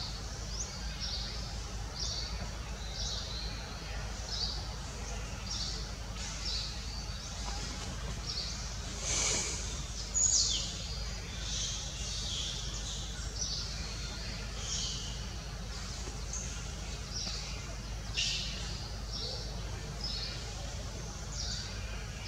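Small birds chirping: short, high, falling chirps about once a second, with a louder call around nine and ten seconds in, over a steady low background hum.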